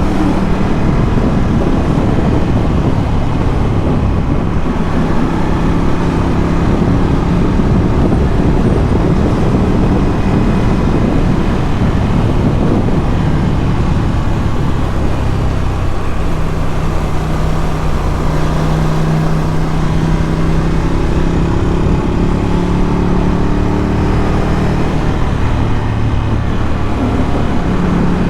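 Ducati Scrambler 1100's air-cooled L-twin engine running through a Termignoni exhaust while riding at an easy pace. The engine note rises and falls gently with the throttle over a steady low rumble.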